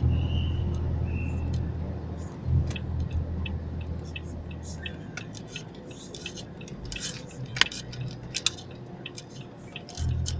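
Low rumble of a Mitsubishi Evo's engine heard from inside the cabin as the car rolls slowly down a ramp. The rumble eases off about halfway through and comes back near the end, with scattered sharp clicks and clinks throughout the second half.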